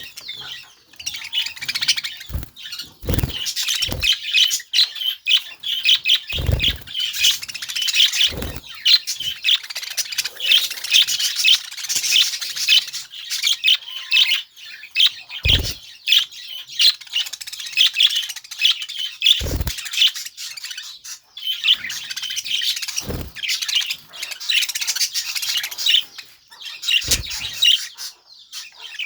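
Budgerigar chattering and warbling, a fast, continuous stream of high chirps. Short low thumps break in now and then, about nine of them.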